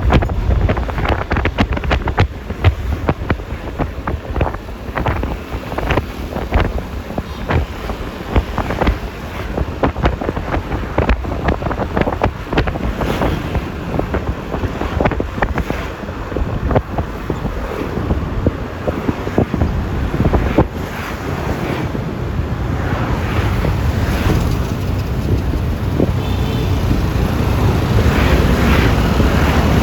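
Wind buffeting the microphone of a phone riding on a Yamaha Lexi LX 155 S scooter, over steady road and traffic noise. The rush is full of short gusts and knocks and grows louder near the end.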